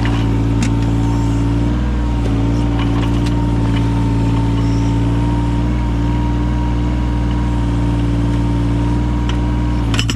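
Yanmar mini excavator's diesel engine running steadily, with a steady higher tone over it and a few faint knocks; a rapid rattling starts right at the end.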